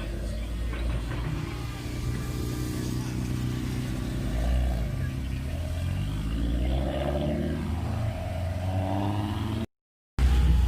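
Car engines running and revving, rising and falling in pitch several times, with a brief dropout to silence near the end.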